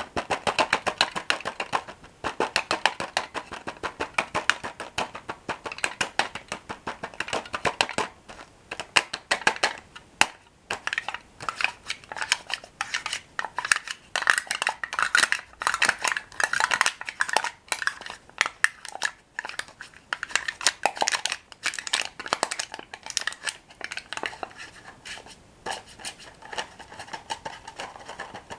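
Close-miked crunching and chewing of toasted bread sticks (Bollycao Dip Dip), a dense run of crisp crackles with brief pauses.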